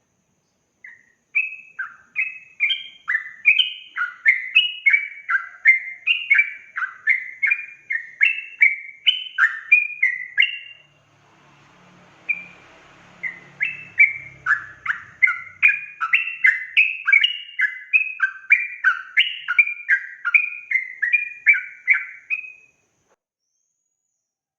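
Yellow-vented bulbul (trucukan) singing a fast, continuous run of bubbly chattering phrases, about two to three notes a second, breaking off briefly midway before carrying on.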